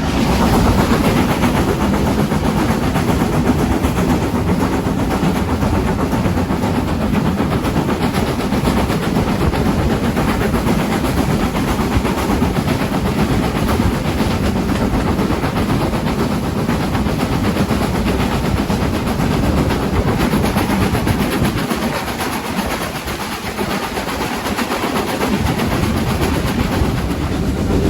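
Steam-hauled passenger train running, heard from aboard the carriage: a steady rumble and rattle of the coaches on the rails.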